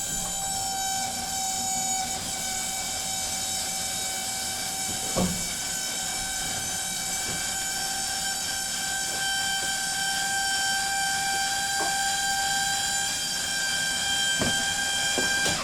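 Electric power tool motor running at a steady high whine for about fifteen seconds, with a few light knocks, then cutting off.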